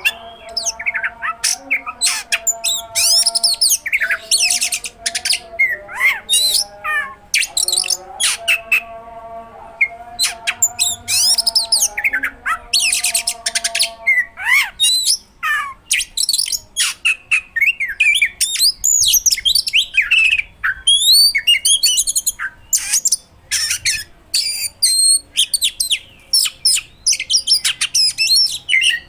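Oriental magpie-robin (kacer) singing without pause: a fast, varied run of sweeping whistled notes and sharp rapid-fire phrases, full of mimicked material. For about the first half a lower, steadier series of repeated notes runs underneath.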